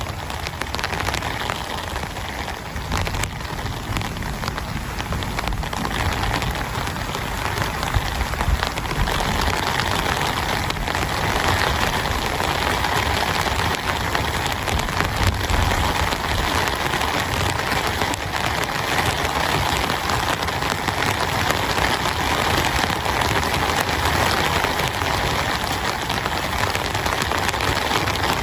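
Heavy rain falling steadily, a dense patter of drops that grows a little louder about ten seconds in.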